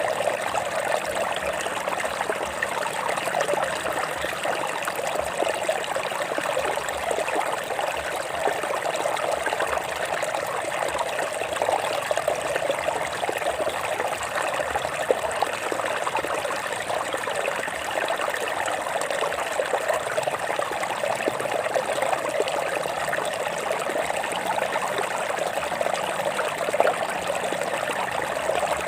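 Water flowing over rocks: a steady, unbroken rush and trickle.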